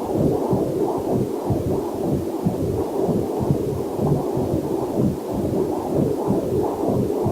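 Rapid, muffled pulsing picked up through a fetal Doppler heart monitor, the heartbeat and blood-flow sound of the womb.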